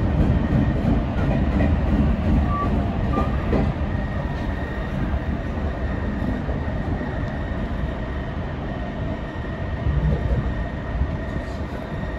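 Jōshin Electric Railway train running along the track, heard from inside the front car: a steady rumble of wheels on rail. About four seconds in, a faint steady whine joins it.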